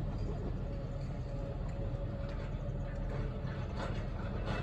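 A Sangi Railway Hokusei Line narrow-gauge electric train running away in the distance: a steady low rumble with a faint steady hum and a few faint clicks near the end.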